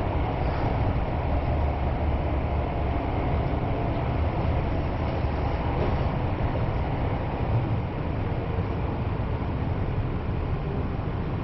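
Kyoto Municipal Subway Karasuma Line train heard from inside the car: the steady rumble of wheels on rail and traction motors running through the tunnel, easing slightly about eight seconds in as the train slows into a station.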